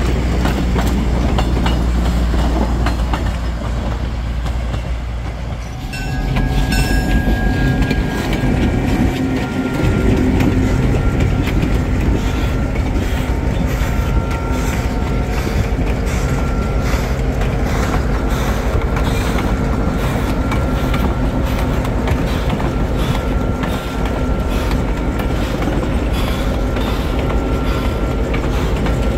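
Passenger railroad coaches rolling past with a heavy low rumble of wheels on track. About six seconds in, the sound switches to the train heard pacing alongside: a diesel locomotive's engine running steadily, with rapid fine ticking from the rolling train.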